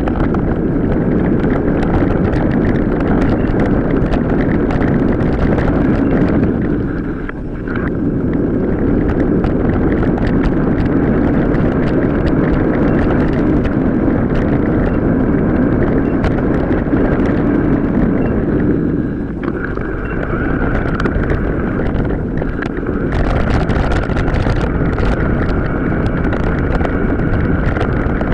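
Wind noise on the microphone and a mountain bike rattling over a rough off-road track, with many small clicks and knocks. The sound is sped up to four or five times normal speed. It dips briefly twice.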